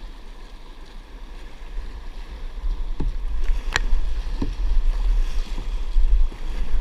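Wind buffeting the microphone while out on a kayak, a low rumble that grows louder about two seconds in, with a few short knocks and one sharp click near the middle.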